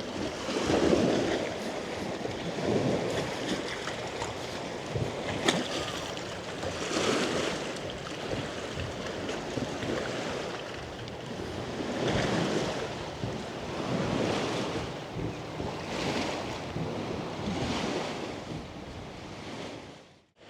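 Small lake waves lapping against the shore, swelling about every two seconds, with some wind; the sound cuts off suddenly near the end.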